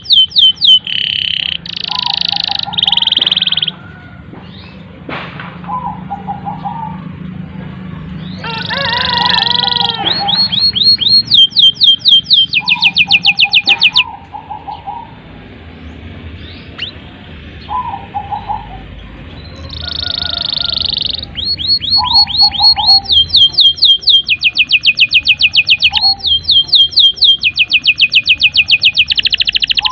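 Domestic canary singing a long, continuous song: fast trills of rapidly repeated high notes and buzzy rolls, with a couple of quieter spells partway through.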